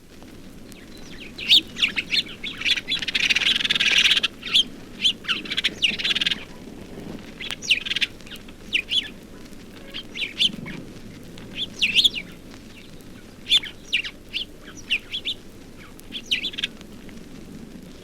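A group of house sparrows chirping to each other: repeated short, sharp chirps in loose clusters, with a denser bout of chattering a few seconds in. A steady low rumble lies underneath.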